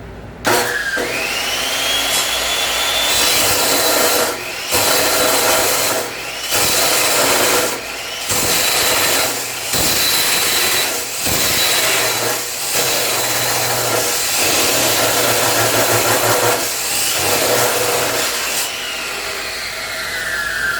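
Chop saw motor spinning up with a rising whine about half a second in, then cutting through 1/8-inch-wall steel tubing with a loud, continuous grinding broken by brief dips. Near the end the blade winds down with a falling whine.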